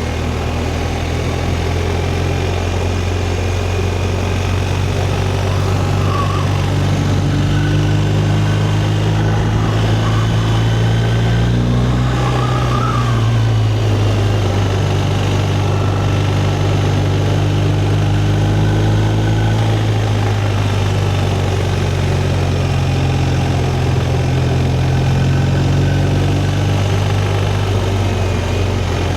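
Motorcycle engine running steadily under way, its pitch easing and picking up a few times with the throttle, over steady wind and road noise.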